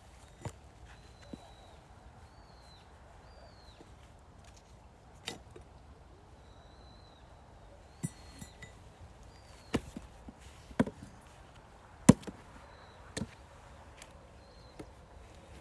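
Firewood being split: sharp, irregular chopping strikes, about eight in all, with the loudest about twelve seconds in. Short, repeated high bird chirps sound between the strikes.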